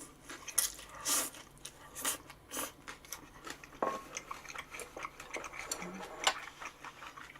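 Close-miked chewing and biting of food, a string of irregular short clicks and crunches a few times a second.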